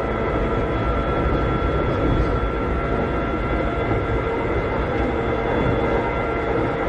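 Interior running sound of a Keikyu 600-series (second generation) electric railcar with Toyo Denki electrical equipment: a steady whine of several held pitches from the traction motors and gearing, over the rumble of wheels on track.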